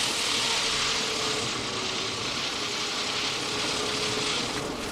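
Strong wind blowing steadily over the boat and across the microphone, a continuous rushing noise that eases a little near the end, with a faint tone coming and going.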